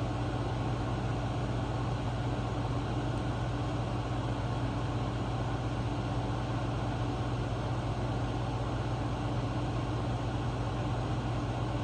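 Air conditioner and electric fan running, a steady low hum with an even whoosh of moving air.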